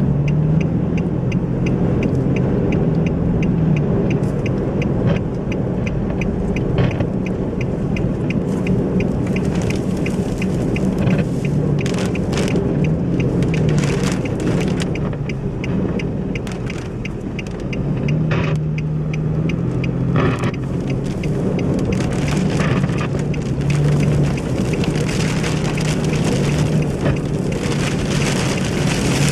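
Strong thunderstorm wind blowing hard, over a steady low engine hum from a vehicle. A fast, regular light ticking sits in the background during the first half.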